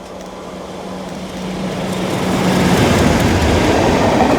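A train running close by, its rumbling and rushing noise growing steadily louder for about three seconds and then holding, with a steady low hum that drops away partway through.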